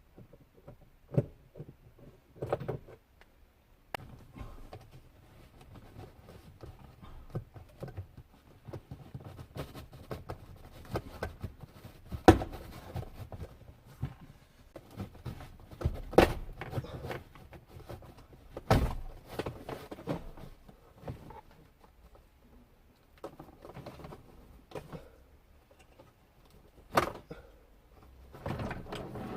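Irregular clicks and knocks of hands and tools working on a car's plastic dashboard trim, with a few sharper knocks among quieter handling sounds.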